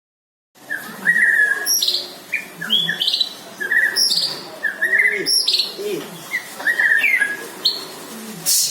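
White-rumped shama singing: after a brief silence it begins about half a second in, with a run of short chirping phrases repeated roughly once a second and lower sliding notes between them.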